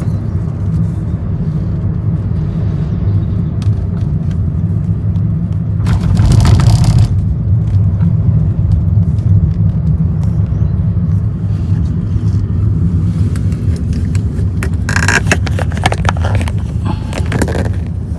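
Steady low road and engine rumble heard from inside a moving car, with two louder rushes of noise, one about six seconds in and a longer one near the end.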